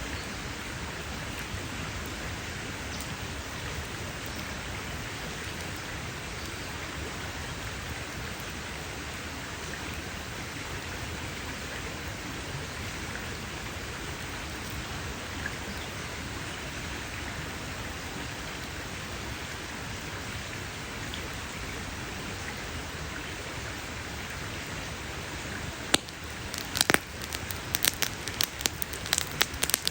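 Campfire burning with a steady hiss, then a burst of sharp crackles and pops from the wood in the last few seconds.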